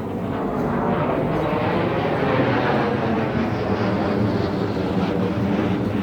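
Fighter jet engine noise: a loud, steady rush that swells slightly over the first couple of seconds, then eases off a little.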